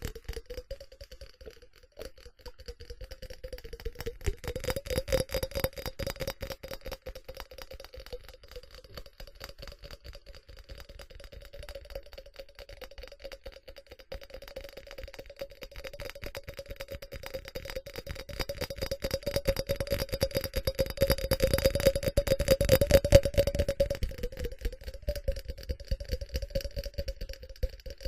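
Fast, continuous tapping on a ceramic object, a rapid patter of clicks over a steady ringing tone from the ceramic. The tapping grows louder and denser past the middle, then eases near the end.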